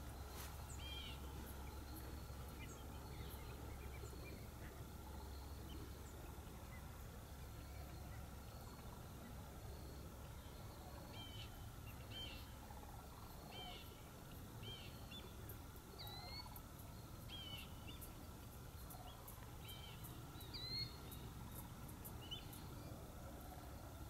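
Faint waterbirds calling across a marsh: short, high, curving calls in scattered clusters, more frequent in the second half, over a steady low hum.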